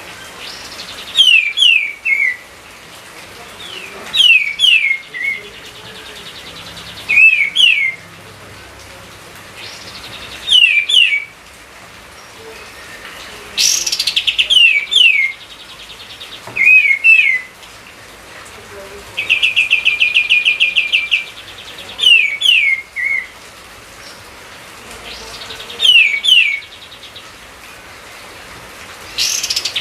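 A bird repeating a short phrase of two or three down-slurred whistled notes about every three seconds, with a fast rattling trill about twenty seconds in, over a steady hiss.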